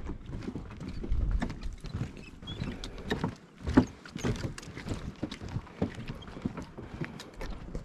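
Footsteps of several people knocking irregularly on a hollow wooden boardwalk, over a low rumble.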